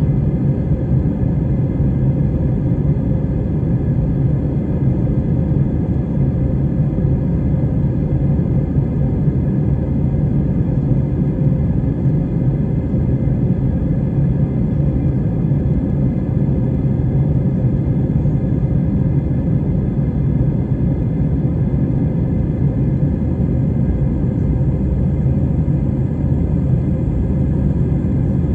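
Airliner engine and airflow noise: a steady, loud low rumble with a constant hum underneath, holding level without any change in power.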